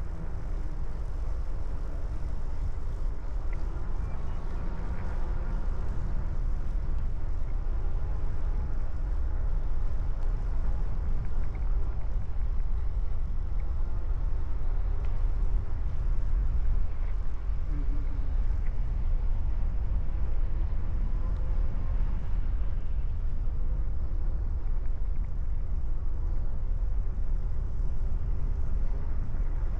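Steady low rumble of wind buffeting the microphone on a moving bicycle, with the ride's road noise underneath.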